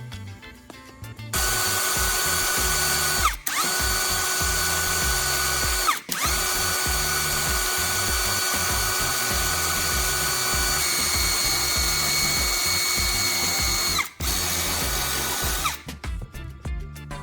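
Small electric motor of a homemade power tool, likely a 775 DC motor, running at high speed with a steady whine. It cuts out and restarts about three times, the pitch sagging each time it stops, and winds down near the end.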